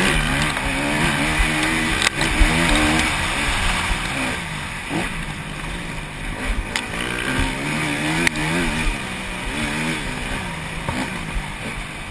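250cc four-stroke motocross bike engines racing, revving up and dropping off again and again as they shift and take corners, with a few sharp knocks.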